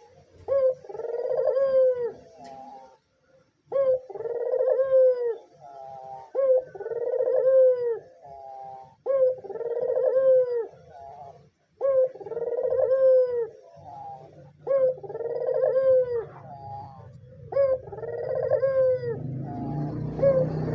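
White Barbary dove (puter) cooing steadily, about seven calls roughly two and a half seconds apart, each a short opening note, a long rolling coo and a brief trailing note. Near the end a broad background noise rises under the last call.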